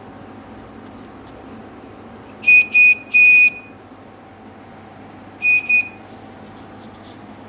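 Home-built automaton whistling bird sounding its whistle: three short notes at one steady high pitch, the third held a little longer, then a pause and two shorter notes.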